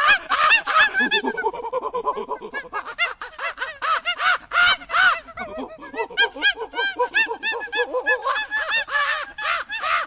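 A flock of birds calling, many short calls that rise and fall in pitch overlapping in a dense, continuous chorus.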